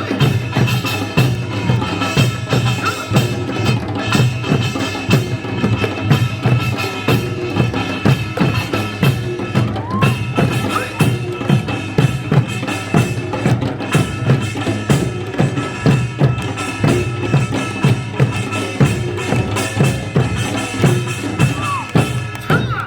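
Korean folk music with a steady, even beat of drums and knocking percussion over a sustained melody.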